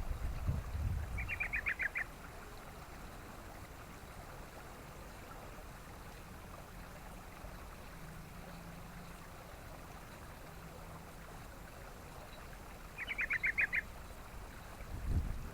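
Yellow-vented bulbul calling: two short bursts of quick repeated chattering notes, about eleven seconds apart. Low wind rumble on the microphone at the start and again near the end.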